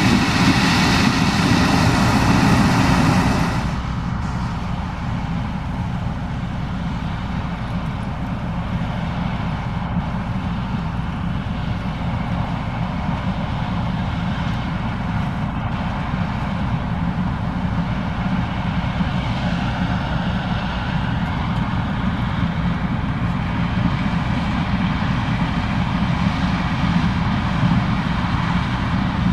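Case IH 2366 combine running steadily while harvesting corn, a continuous heavy machinery drone with a constant hum. It is louder and brighter for the first three and a half seconds, then drops to a slightly quieter, even level.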